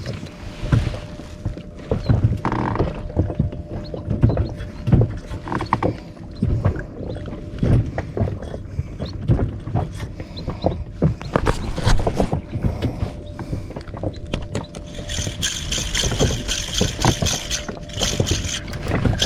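Small waves slapping and knocking irregularly against a small inflatable boat's hull. From about three-quarters of the way in, a fishing reel is being cranked with a fast, rattling whir.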